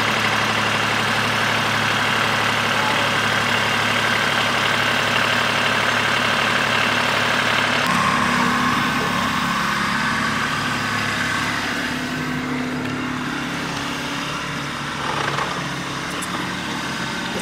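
Small Kubota tractor's engine running steadily; about eight seconds in its note changes as the engine's load or speed shifts.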